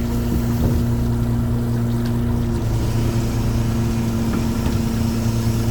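Small fishing boat's engine running steadily, its pitch dropping slightly about two and a half seconds in.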